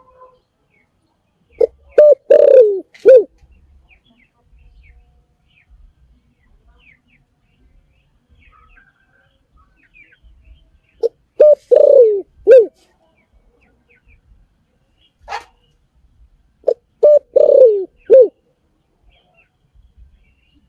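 Spotted dove cooing: three calling phrases about seven seconds apart, each a few short coos with one longer, falling coo near the end.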